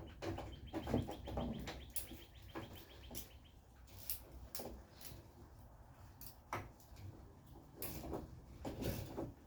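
A wrench working on the suspension bolts: a rapid run of light ratchet clicks for about two seconds, starting about a second in, with scattered metal clinks and knocks of the tools.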